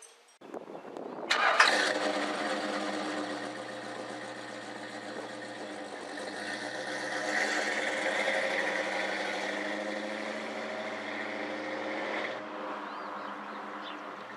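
Classic Dodge car's engine catching suddenly about a second in, then running steadily, and cutting off sharply near the end.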